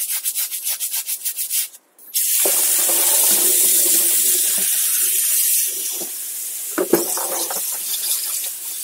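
Fast scrubbing, about five strokes a second, that stops just under two seconds in. Then water runs steadily from a tap, with a single knock about seven seconds in.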